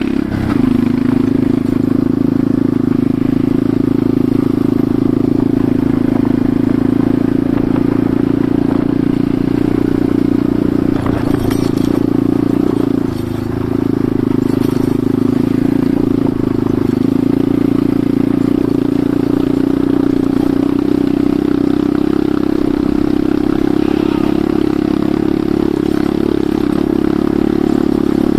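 Enduro motorcycle engine running steadily while riding, with a brief easing of the throttle about halfway through.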